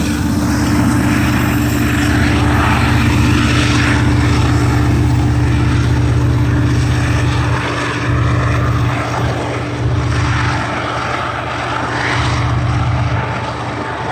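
TE33AC diesel locomotive's V12 engine running with a loud, steady low drone, the level dipping and swelling slightly in the second half as the locomotive goes by.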